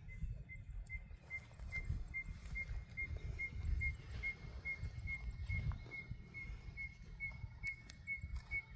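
Distant elephants bellowing, heard as an uneven low rumble, with a steady run of short high pips from a small animal calling about two or three times a second.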